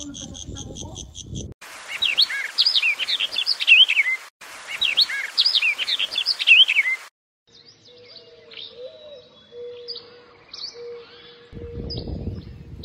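Songbirds singing: one loud warbling song phrase heard twice in a row, then softer scattered chirps over a low, steady whistled note. Rhythmic cricket chirping fills the first second and a half, and a low rumble of wind comes in near the end.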